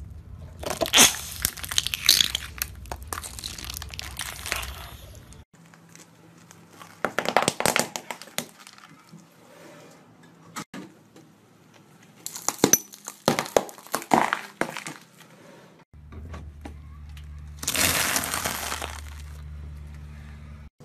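Car tyre rolling over and crushing small crunchy objects, a plastic container among them: four separate bursts of cracking and crunching with short pauses between them.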